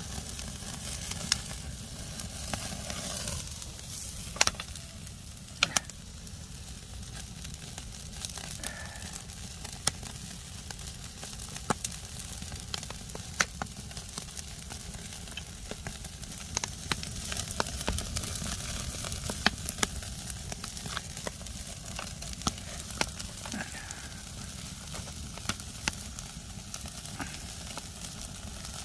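Semi-dried sea bass grilling over a wood fire: a steady sizzle with irregular sharp pops and crackles.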